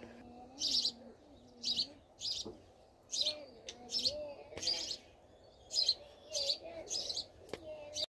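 Small birds chirping in the bushes: short, high chirps repeating every half second to a second, with faint wavering lower tones beneath them.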